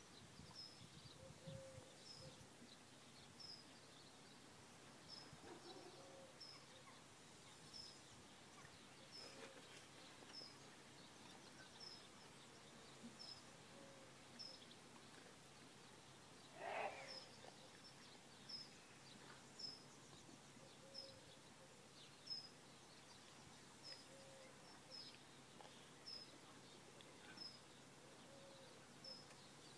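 Faint birdsong: a small bird repeats a short high chirp about once a second, with a lower call now and then. One brief, louder sound comes a little past halfway.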